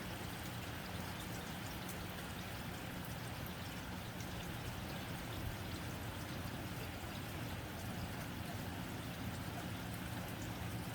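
Steady rain on a tin roof: an even hiss of drops with faint scattered ticks, over a low steady hum.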